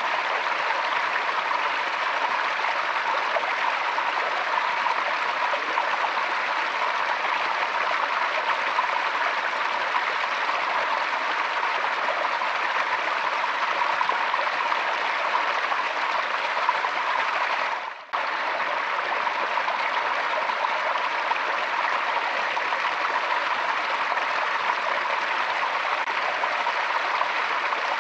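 Forest stream flowing steadily over rocks, an even rushing and splashing of water. About two-thirds of the way through it dips for a moment and cuts out very briefly before carrying on.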